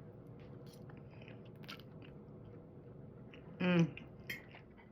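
A person chewing food close to the microphone, with soft crunches.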